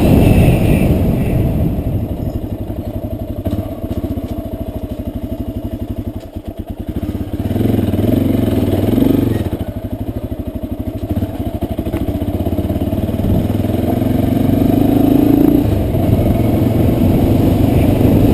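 Trail motorcycle engine running under a rider's throttle, revs rising and falling: slow, chugging low-rev stretches in the middle, with pick-ups about halfway through and again near the end.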